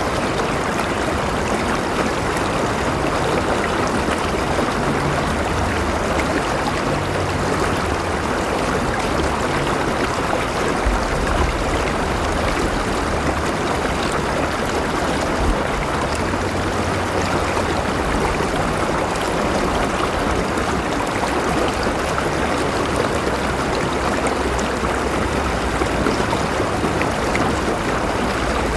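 River water flowing steadily: a dense, even rush with an uneven low rumble underneath.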